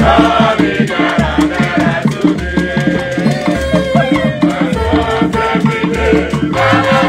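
Igbo ogene band music played live: a fast, steady beat of rattles and hand percussion, with a bass pulse about every second and held melody notes above.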